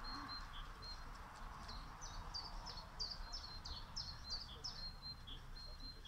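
Songbirds singing. One repeats a pair of short high notes over and over, and another sings a quick run of about a dozen downslurred whistles in the middle.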